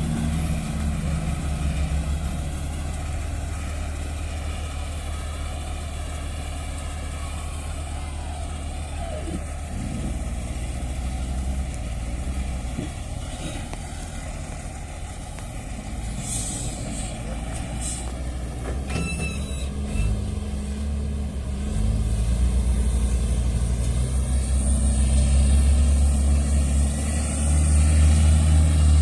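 Heavy diesel engine running steadily, working harder and louder in the last third, with brief hisses around the middle.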